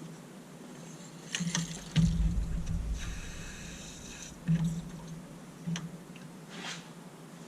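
Engine coolant being drawn out of a car's coolant expansion tank with a fluid extractor, liquid slurping and gurgling, with a few sharp knocks and a heavy thump about two seconds in.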